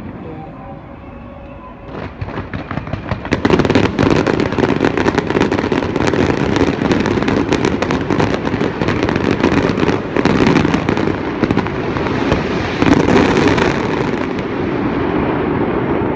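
Fireworks display: after a quieter first two seconds, a dense barrage of rapid crackling bangs sets in and keeps going, thickest from about three seconds in.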